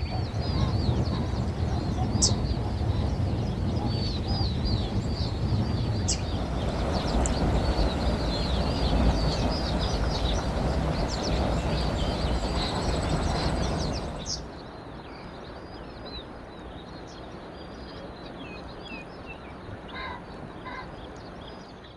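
Many small birds chirping rapidly and continuously. A loud, low rumbling noise lies under them for about the first fourteen seconds, then stops suddenly, leaving the chirping quieter on its own.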